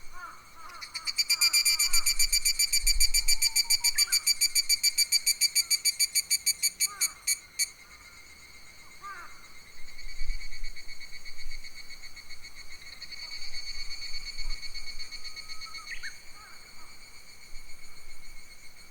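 Summer forest chorus. About a second in, a cicada starts a loud, rapidly pulsing call, about six pulses a second. It runs for some six seconds and stops abruptly. A steady high insect drone and short bird chirps continue throughout.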